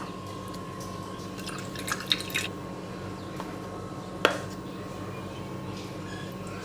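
Steady low hum with a faint high steady tone, broken by a few light taps and clicks and one sharper click about four seconds in.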